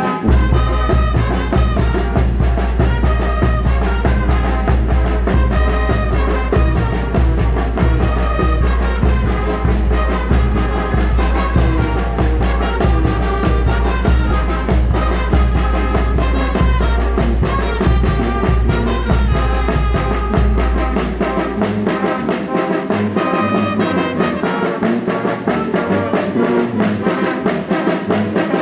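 Oaxacan brass band (banda) playing, with trumpets and trombones over a steady beat. A deep low bass layer runs under the music and drops out about three-quarters of the way through.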